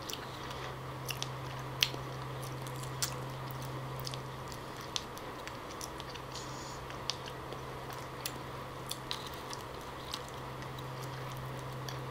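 A person chewing wild jackfruit pulp close to the microphone, with scattered wet mouth clicks, the sharpest about two seconds in, over a steady low hum.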